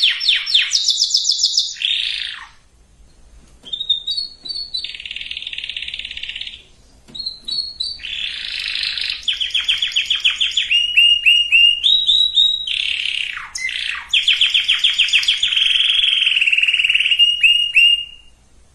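Domestic canary singing: a long song of fast repeated-note trills and rolls in changing phrases, broken by a short pause about three seconds in and another about seven seconds in.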